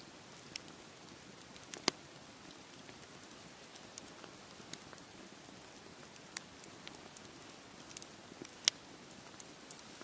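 Campfire crackling: sharp pops and snaps every second or so, two of them loud, about two seconds in and near the end, over a steady hiss.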